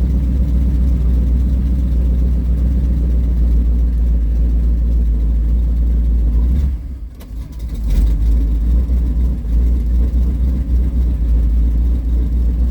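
1940 Ford pickup hot rod's engine idling steadily as it warms up after a cold start. The owner thinks it is down a hole, with one cylinder not firing. About seven seconds in the sound drops away for roughly a second, then returns.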